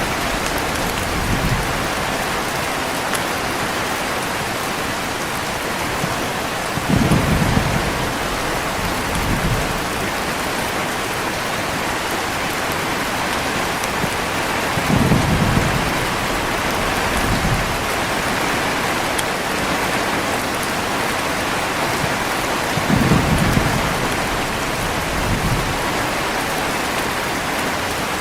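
Heavy rain falling in a steady hiss, with low rolls of thunder three times, about every eight seconds, each with a smaller rumble a couple of seconds after it.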